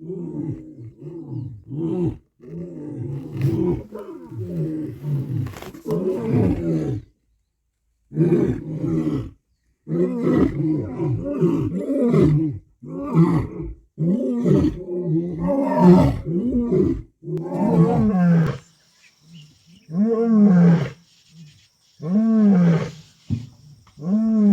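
Lion roaring: a long run of loud, deep moaning calls, then near the end single grunts spaced about two seconds apart, each rising and falling in pitch, as a lion's roaring bout trails off.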